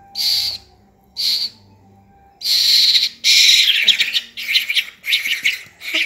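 A black fledgling bird giving harsh begging calls with its red gape wide open: two short calls, then from about two and a half seconds in a longer run of louder, rapidly repeated calls.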